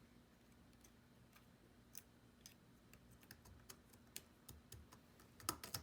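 Faint, irregular small clicks and taps, a couple slightly louder near the end, over a low steady hum.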